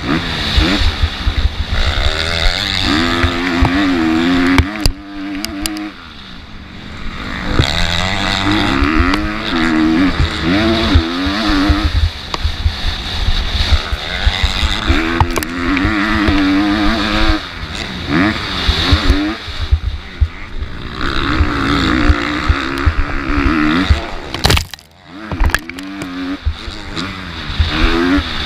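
MX2-class motocross bike engine revving hard and easing off in repeated surges as it accelerates and shifts, with wind buffeting the microphone. The throttle shuts off briefly twice, about five seconds in and near the end.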